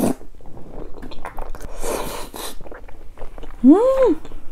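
Close-miked chewing of a big mouthful of tteokbokki, chewy rice cakes in thick spicy sauce, with wet squishing mouth sounds. Near the end a short closed-mouth "mmm" rises and falls in pitch.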